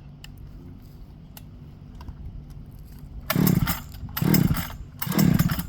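Echo 7310 chainsaw being pull-started, three hard pulls of the starter cord about a second apart starting about three seconds in, the engine cranking without catching. The saw is flooded, by the owners' account.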